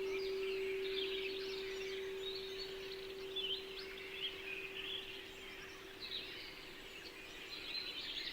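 A singing bowl's single steady tone slowly fading away, under a chorus of small birds chirping and twittering.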